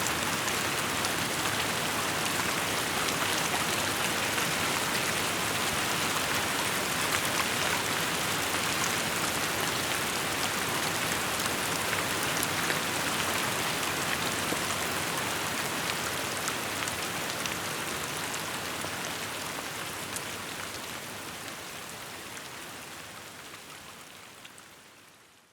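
Steady rainfall pattering on surfaces, an even hiss with scattered drop ticks, fading out gradually over the last ten seconds.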